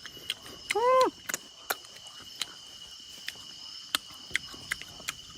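Steady high-pitched insect trill, typical of crickets, with scattered light clicks. About a second in, a short voiced sound rises and falls in pitch.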